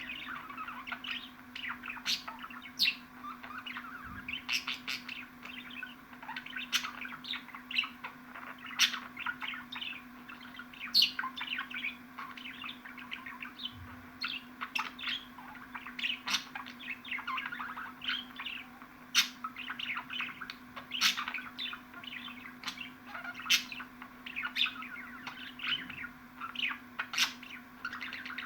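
Budgerigar warbling chatter: a continuous stream of chirps, warbles and sharp clicking notes, over a steady low hum.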